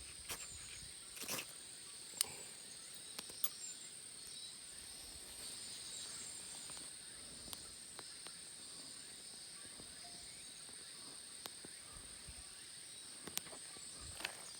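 Faint outdoor ambience: a steady high-pitched insect drone, with scattered sharp clicks.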